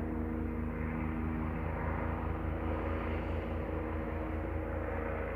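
Helicopter flying nearby: a steady engine and rotor drone with an even, low beat.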